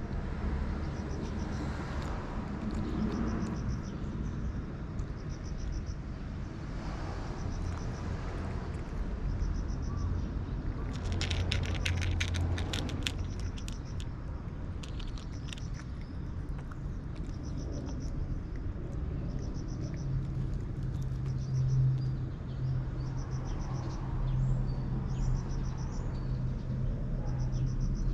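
Outdoor ambience: a steady low rumble like distant road traffic, under a short high chirping call that repeats every two seconds or so. About eleven seconds in comes a couple of seconds of rapid, crisp clicks.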